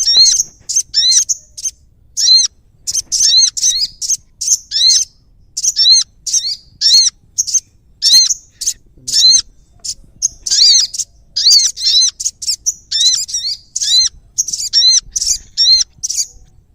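Prinia (prenjak) singing: quick high chirps in repeated bursts of three or four notes, about one burst a second.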